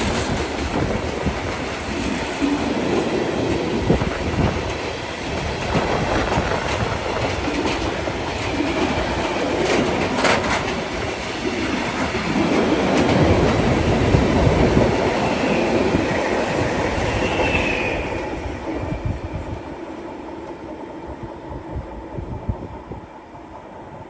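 Train running by on the rails, its wheels clicking over rail joints, with a brief high wheel squeal; the sound fades away over the last several seconds.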